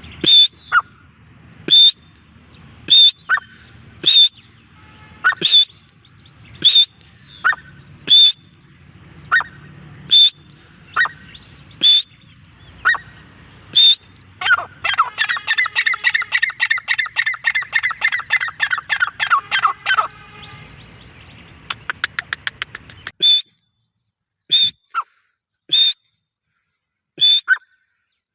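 Grey francolin calling: sharp, high call notes repeated about once a second, then about halfway through a fast run of rapid notes for about five seconds, and spaced single calls again near the end.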